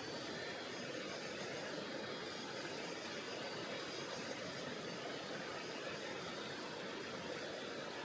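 Mountain river water rushing over rocks, a steady unbroken wash of noise.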